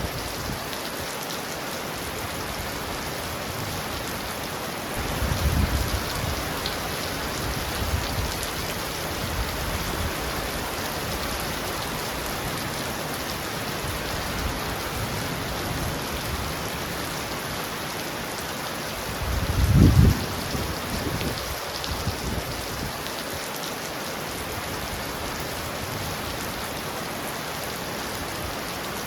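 Heavy rain pounding steadily on a roof. Low rumbles of thunder sound about five seconds in and again, louder, around twenty seconds in.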